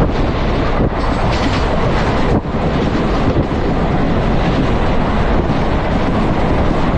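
Train running on the rails: a loud, steady rumble and clatter of wheels, with wind buffeting the microphone and a few brief dips in the noise.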